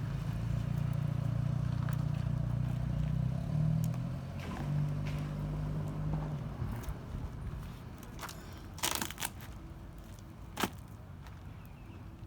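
A vehicle engine running with a steady low hum that steps up in pitch about four seconds in, then fades away by about seven seconds. Later come a few sharp knocks.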